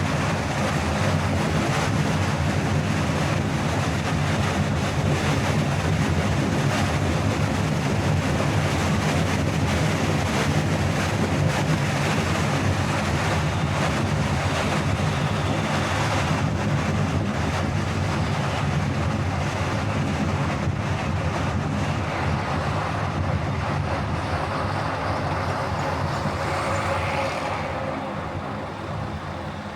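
Steady road and engine noise of a car driving at speed, a continuous low rumble under tyre and wind hiss, easing off and getting quieter near the end.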